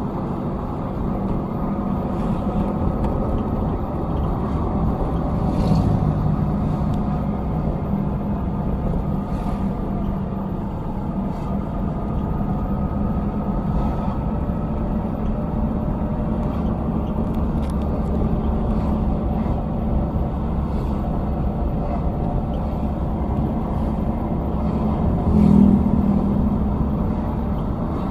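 Heavy vehicle engines running steadily with a low rumble, with a brief louder swell about 25 seconds in.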